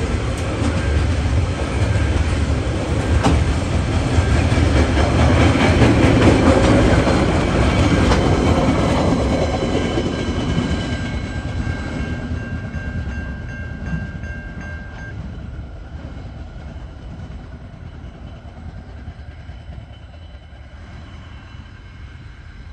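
The rear coal hopper wagons of a TasRail freight train rolling past on the rails, two of the rear hoppers running on flat-spotted wheels. The rolling is loudest about six seconds in, then fades steadily as the end of the train draws away.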